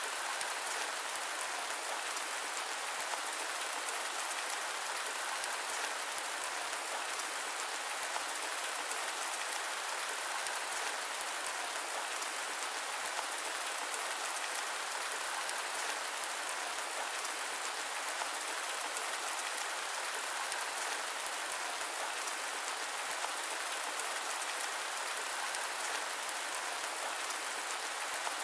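Steady rain falling on a surface, an even hiss with fine pattering drops and no thunder.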